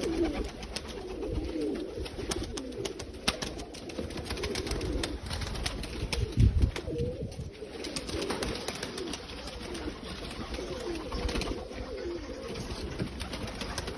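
A loft of Pakistani pigeons cooing, many birds calling over one another. There are scattered sharp clicks throughout and a low thump about six and a half seconds in.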